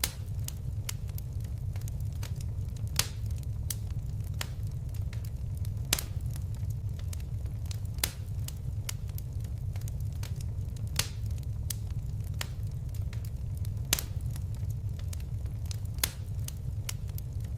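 Wood fire crackling, with many small crackles and a sharper pop every few seconds over a steady low rumble of the flames.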